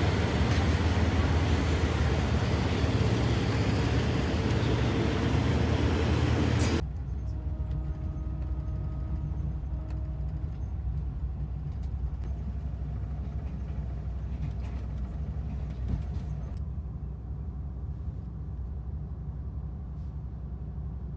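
State Railway of Thailand sleeper train, heard loud and close as a carriage moves past at the platform, a steady rushing clatter. It cuts off about seven seconds in to a much quieter, steady low rumble of the train heard from inside a sleeper berth.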